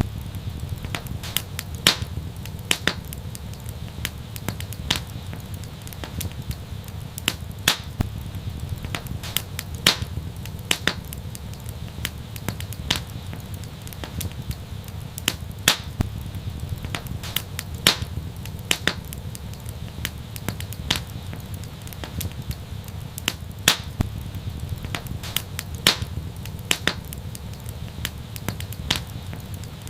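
Wood fire crackling: irregular sharp pops and snaps, a few every second, over a steady low rumble of the flames.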